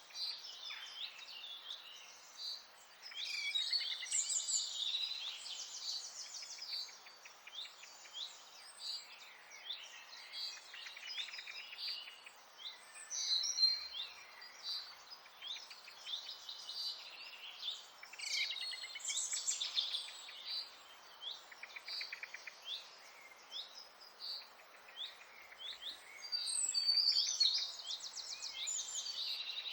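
A dense chorus of songbirds: many overlapping chirps and fast trills, with louder bursts of song now and then, over a steady hiss.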